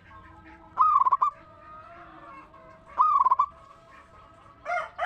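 Zebra dove (perkutut) cooing: two short, rapidly pulsed calls about two seconds apart, with a third starting near the end.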